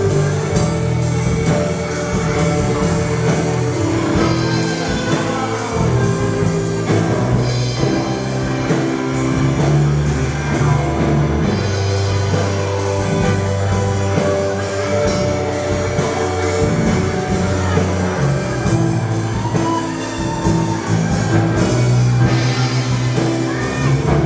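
A Sunday school children's choir singing a worship song over band accompaniment with drums, bass and guitar, at a steady beat.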